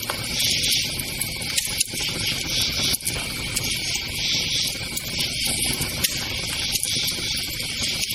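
A campfire burning with a low steady rush and a few sharp crackles and pops, under a constant chorus of crickets chirring that swells and fades.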